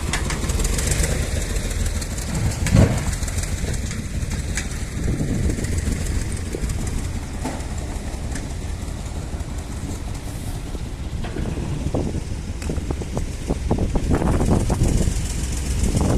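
Tractor engine running steadily with a low rumble, with scattered knocks and clanks, the loudest about three seconds in.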